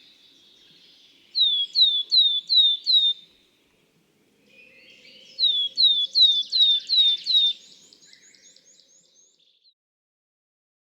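Willow tit singing two phrases of clear, evenly repeated down-slurred whistles, about five to six notes each, with fainter bird chirps behind.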